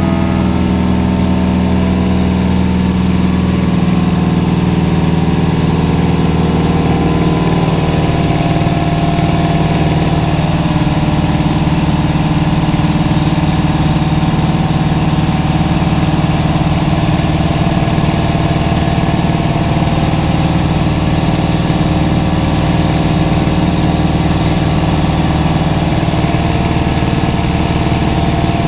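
Aircraft engine droning steadily as heard inside the cabin in flight, its tones shifting slightly over the first several seconds and then settling.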